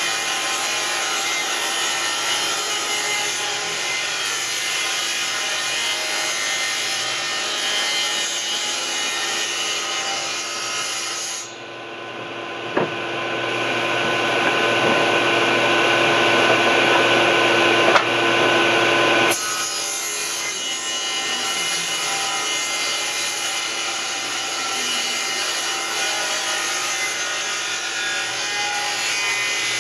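Electric power tool working wood, running steadily. About a third of the way in the sound changes abruptly to a stronger whine that grows louder for several seconds, then drops back to the earlier steady running sound.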